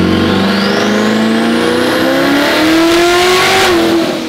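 Twin-turbo C8 Corvette's 6.2-litre V8 revving up under load on a dyno, its pitch climbing steadily for about three and a half seconds with a high whine rising alongside, then falling away near the end; heard from inside the cabin. The tuner thinks it is down a cylinder, maybe two, on bank two: an ignition misfire.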